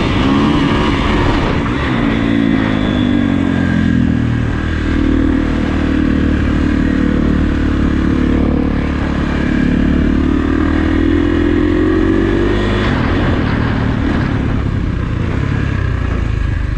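Kawasaki KX450F dirt bike's single-cylinder four-stroke engine pulling under throttle. Its pitch rises slowly over several seconds, then drops off about thirteen seconds in.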